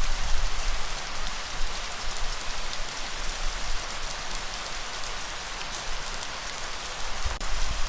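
Steady rain falling, a dense even patter with scattered individual drop ticks. Under it is a low rumble, heavier in the first second and again near the end.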